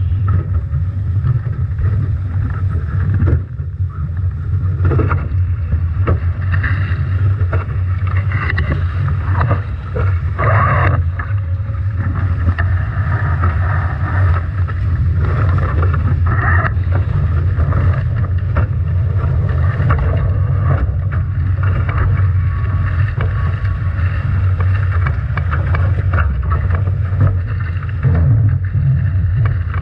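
Strong wind buffeting the onboard microphone as a constant low rumble, over the rushing hiss of water and spray against the hulls of a Nacra 17 foiling catamaran sailing upwind through heavy waves, with scattered splashes.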